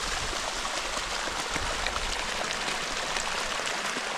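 Spring-fed stream running steadily over the lip of a small waterfall, an even splashing rush with small drips and ticks through it. The flow is low after dry weather.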